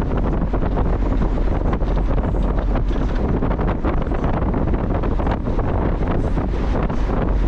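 Wind buffeting the microphone in a moving Mazda Miata, with the car's road and engine noise underneath as a steady low rumble.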